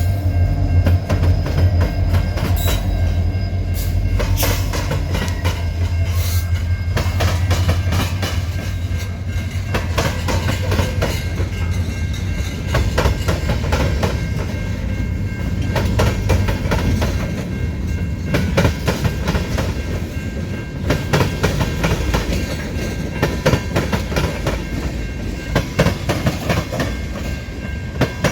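Train passing close by: a steady low locomotive engine drone for about the first twelve seconds, then the cars rolling past with the wheels clacking over rail joints.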